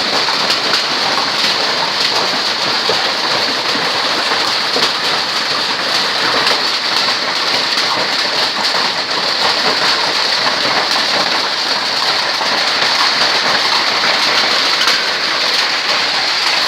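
Hail and heavy rain falling, a steady dense patter of countless small stone and drop impacts on surfaces.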